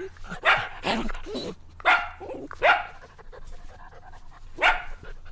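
Puppy barking: about five short, high barks spread over a few seconds, each dropping in pitch.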